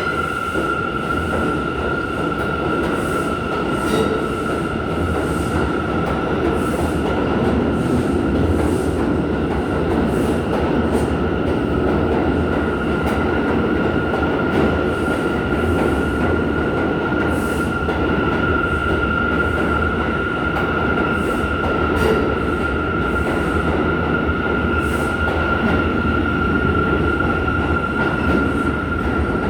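New York City subway train running slowly, its wheels squealing in one steady high tone over the rumble of the cars.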